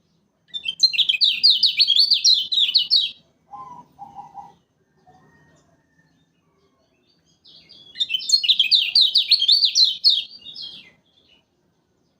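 Kecial kuning, a Lombok white-eye, singing two loud, fast chattering phrases of rapidly repeated high notes, each about three seconds long, with a gap of about four seconds between them. Two short, quieter, lower notes come in the gap.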